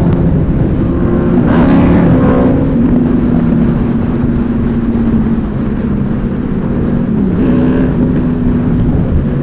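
Superbike engines running as a group of motorcycles rolls in, with a steady engine note, a brief rise in revs a couple of seconds in and a drop in pitch near the end.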